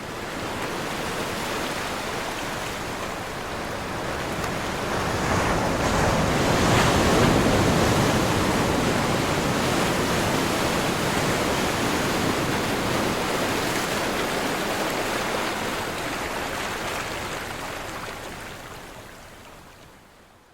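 Ocean waves crashing and washing on a shore, a continuous rushing surge that builds to its loudest about a third of the way in, then slowly recedes and fades out near the end.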